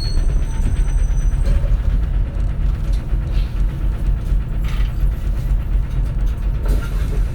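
Compressed-natural-gas engine of a 2004 city bus running, heard from inside the cabin as a steady low drone, with small clicks and rattles from the bus interior.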